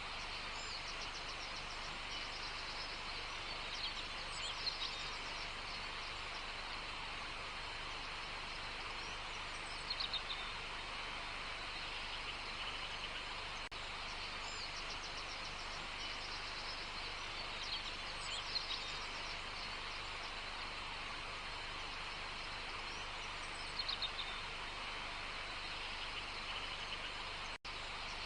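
Birds calling with short chirps and trills every few seconds over a steady hiss of outdoor ambience.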